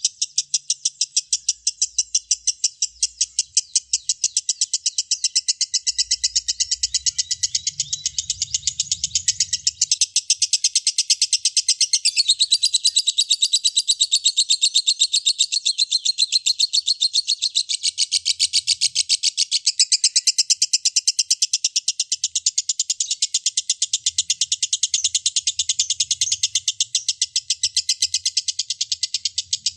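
A lovebird singing its long 'ngekek' chatter: a fast, even, unbroken stream of shrill chirps, about five a second.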